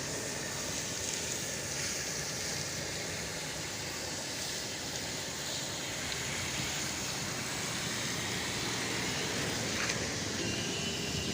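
Steady hiss of a water jet spraying onto a car during a wash, with a brief click near the end.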